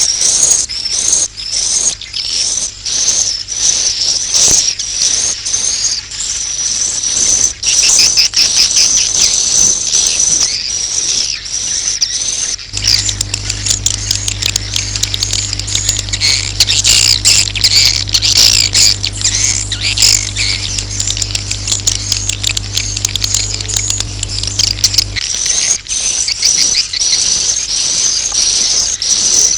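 Swiftlets' roosting calls ('suara inap'): a dense, continuous stream of high twittering chirps, the kind of call played in swiftlet houses to draw the birds in to roost. For about twelve seconds in the middle, a steady low hum runs underneath.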